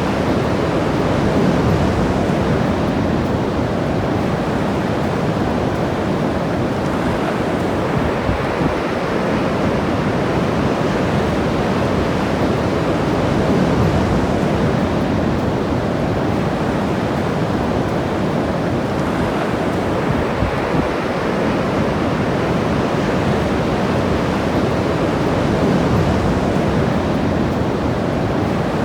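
Ocean surf breaking along the shore as a steady wash of noise that swells and eases every few seconds, with some wind on the microphone.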